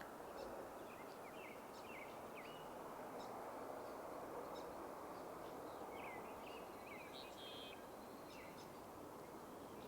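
Young marsh birds giving many short, high, slurred calls over a steady low background rush. The birder takes them for young red-winged blackbirds, whose call differs at this time of year.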